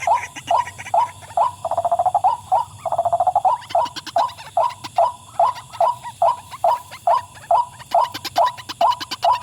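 White-breasted waterhen (wak-wak bird) calling: an evenly repeated 'wak' note, a little over two a second, broken about two and three seconds in by a lower, rattling churr.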